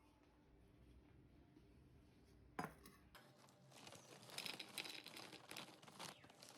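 Faint handling noises: a single sharp click about two and a half seconds in, then light, irregular crinkling and clicking.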